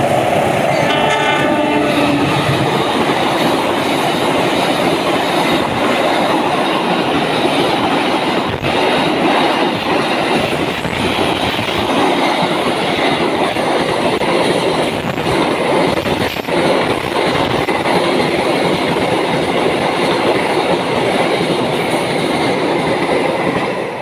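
Long container freight train passing: a loud, steady rumble of wagon wheels clacking over the rails, with a horn sounding briefly at the start.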